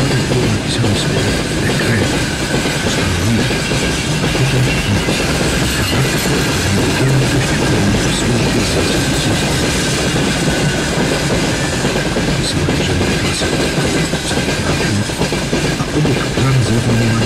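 Freight train of open-top wagons rolling steadily past, its steel wheels running over the rails.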